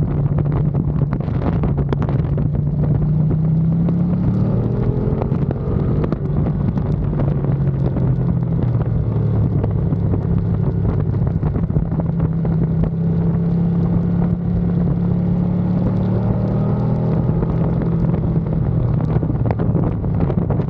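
Ducati Panigale V2's 955 cc L-twin engine running hard on track, with wind rushing over the microphone. Its pitch climbs over the first few seconds, holds steady, and eases slightly near the end.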